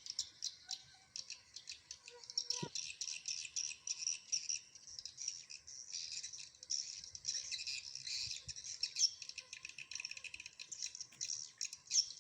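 Dense, rapid high-pitched twittering and clicking of many swiftlets, with a brief falling tone about two and a half seconds in.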